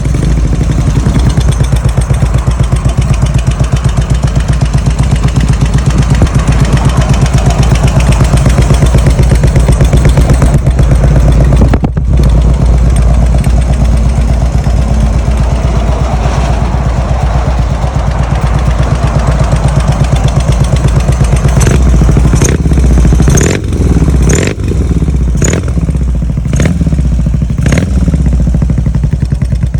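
BMW R100 air-cooled boxer twin running loud and steady through a full titanium exhaust with a deep, tight note. In the last third, several sharp cracks come from the exhaust.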